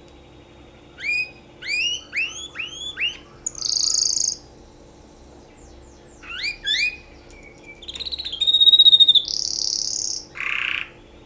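Canary singing two phrases. Each starts with a run of quick rising whistled notes and goes into buzzy rolls and trills. The second phrase is louder, with a rapid trill about midway as its loudest part and a low buzzy roll at the end.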